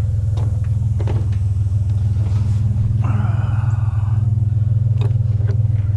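Pickup truck engine idling with a steady low rumble, with a few light clicks and a brief higher-pitched tone about halfway through.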